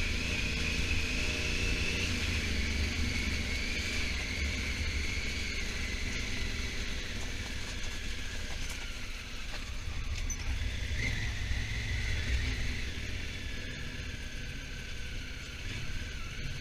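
Honda Africa Twin parallel-twin engine running steadily while riding, with low wind and road rumble. A high thin whine slowly drops in pitch over the stretch.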